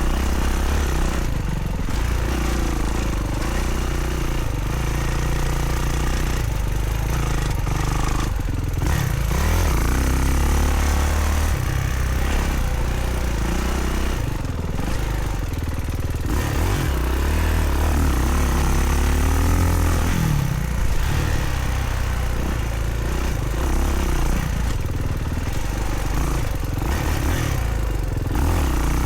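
Kawasaki dirt bike's engine being ridden hard, revving up and down over and over as the throttle opens and closes.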